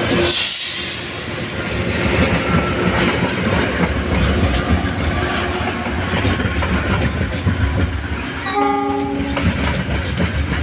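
Coal train passing, its wagons clattering along the rails in a steady, loud rush. Near the end a brief steady tone sounds for about a second.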